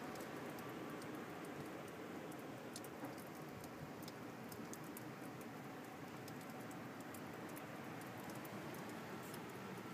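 Snowstorm: a steady hiss of wind with scattered light ticking and patter of driven snow striking a surface.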